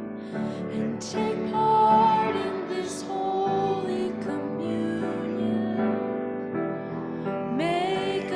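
A hymn sung with piano accompaniment: slow held notes, with the sung words' 's' sounds standing out about a second in, around three seconds in, and near the end.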